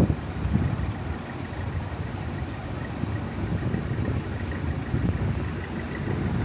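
Road traffic: vehicle engines running close by as a steady low rumble.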